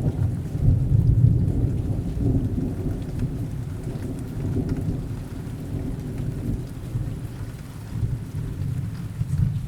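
Rain falling steadily under a long, low roll of thunder that rumbles on and slowly fades.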